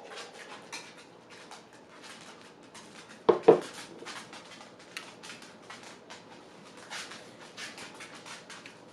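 Someone eating off a plate: a steady run of small clicks and taps from chewing and cutlery. Two sharp, louder knocks close together about three seconds in, like a fork or spoon hitting the plate.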